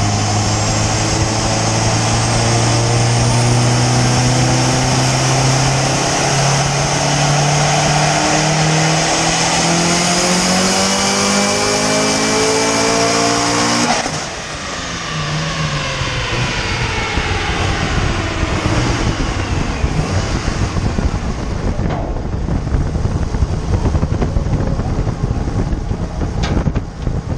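Turbocharged Subaru STi flat-four making a full-throttle dyno pull, its pitch climbing steadily for about fourteen seconds as the revs rise. Then the throttle closes abruptly and the revs fall away, heard close up from the engine bay.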